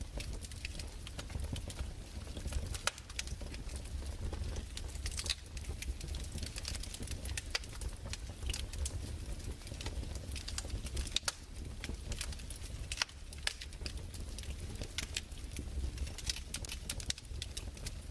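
Fireplace fire crackling: irregular sharp snaps and pops, several a second, over a low steady rumble.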